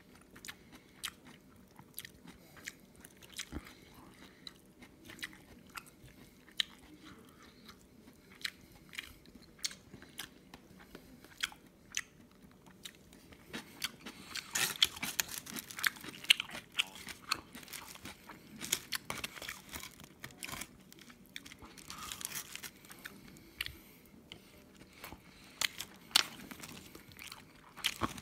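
A person chewing a rice burger with kimchi and egg close to the microphone: wet mouth clicks and smacks throughout, with denser spells of crunchy crackling about halfway through and again a few seconds later.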